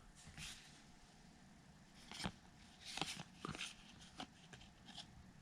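Baseball trading cards being flipped through by hand: faint slides and light clicks of card against card, a handful of times.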